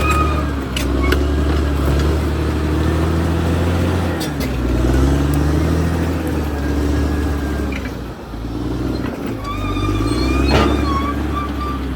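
Caterpillar D6R XL crawler bulldozer's diesel engine working under changing load, its pitch rising and falling and sagging briefly about eight seconds in. Steel tracks clank a few times, with thin high squeals.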